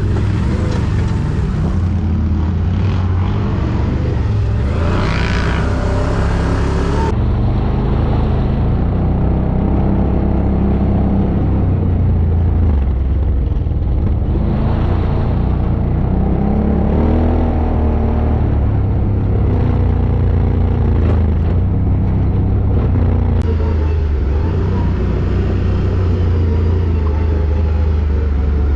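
ATV engine running continuously under way, a low steady drone with the engine note rising and falling now and then.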